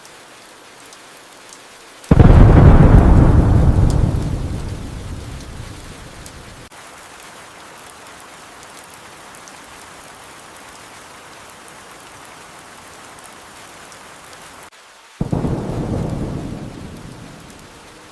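Steady rain with two peals of thunder: a loud one about two seconds in that rumbles away over several seconds, and a weaker one near the end.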